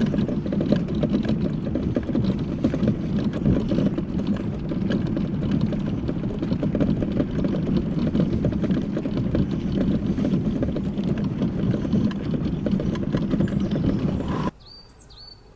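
Mobility scooter riding along a path, its running noise full of a constant rattle that the rider suspects is a loose foot plate over the wheel. The noise cuts off suddenly near the end, and a few short bird chirps follow.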